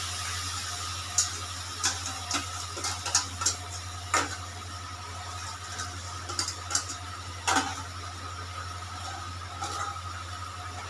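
Scattered clinks and knocks of kitchen utensils against cookware, over a steady low hum.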